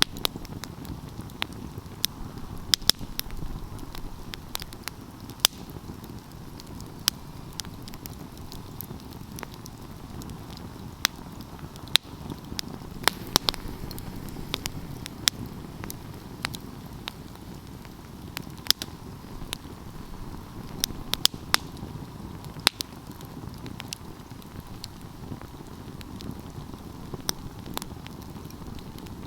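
Wood fire crackling: irregular sharp pops and snaps, a few louder than the rest, over a steady low rush of the flames.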